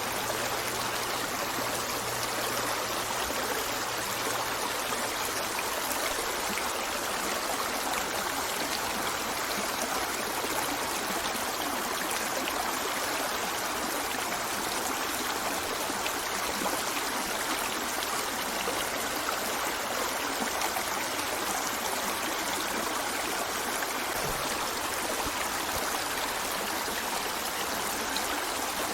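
River water flowing over rocks: a steady, even rush with trickling and gurgling.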